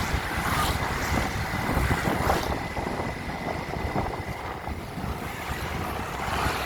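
Wind buffeting the microphone while travelling along a road, over a steady low rumble, with a faint steady high tone running underneath.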